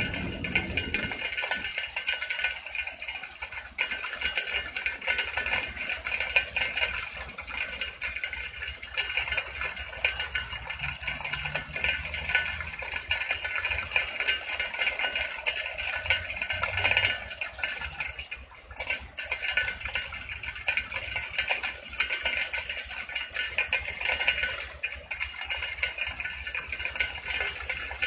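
Steady rain falling, an even, unbroken hiss of many fine drops.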